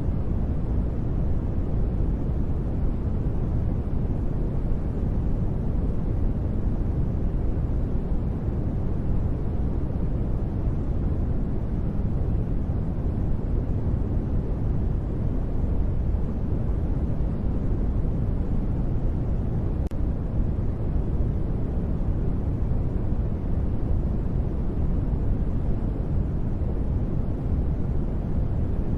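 Continuous steady noise for sleep, deep and rumbling, with little treble and no changes or sudden sounds.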